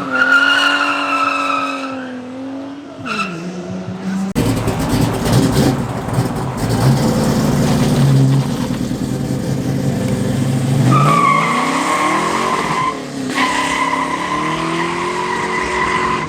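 Muscle cars accelerating hard with tires squealing. A long tire squeal over engine revs in the first couple of seconds gives way, about four seconds in, to a heavy, rumbling engine run at full throttle. A second sustained tire squeal comes in about eleven seconds in, with the engine revving higher under it.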